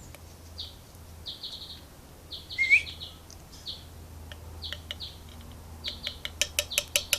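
Alexandrine parrot chattering in short chirps, with one loud rising squeak about two and a half seconds in. Near the end comes a quick run of sharp clicks, about five a second.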